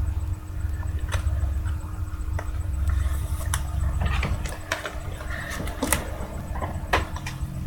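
Trading cards and their plastic holders being handled: scattered light clicks and short rustles over a steady low rumble.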